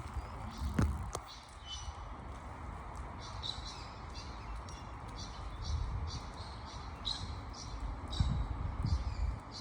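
Small birds chirping in short, repeated calls over a steady rush of creek water, with a few low rumbles about a second in and near the end.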